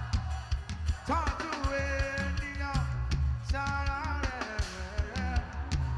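Live church worship music: a band with drum kit, bass and guitar under sung vocal lines.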